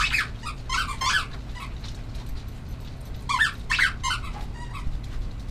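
Small animals squeaking: short high squeaks in clusters, a few at the start and about a second in, and more about three and a half seconds in, over a low steady hum.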